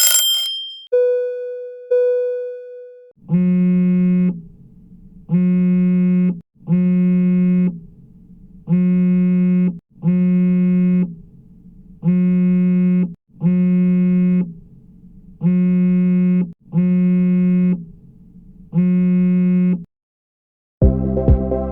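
A string of alarm sounds: a shrill alarm cuts off, two chime pings follow, then a low buzzing electronic alarm tone sounds in blasts of about a second each, singly and in pairs. Electronic music with a beat starts near the end.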